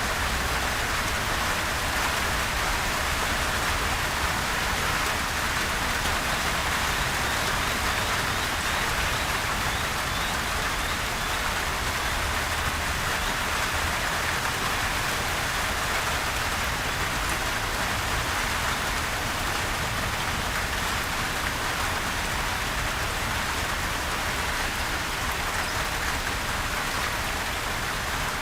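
Steady, gentle rain falling on surfaces, an even patter of many drops with no thunder.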